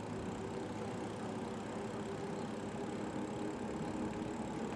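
Steady low engine hum, even and unchanging, over a faint background rush.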